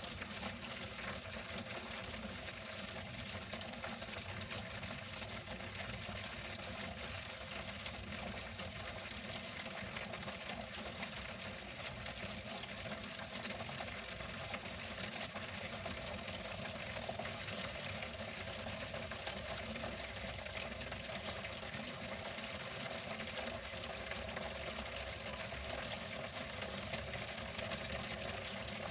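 Water flowing steadily and continuously, an even rushing splash that does not change.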